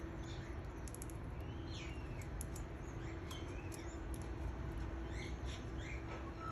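Young canaries chirping: scattered short, fairly faint chirps and quick rising and falling pitch slides, over a steady low hum.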